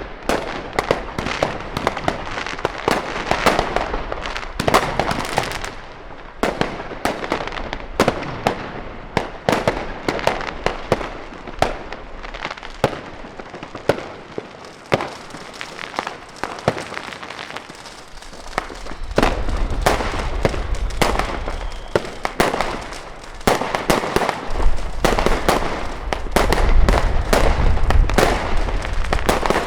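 Many fireworks and firecrackers going off at once: a dense, continuous crackle of sharp bangs and pops, with a low rumble joining in about two-thirds of the way through.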